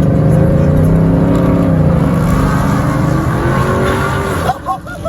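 Car engine revving hard, its pitch dropping and then climbing again, before it stops abruptly about four and a half seconds in.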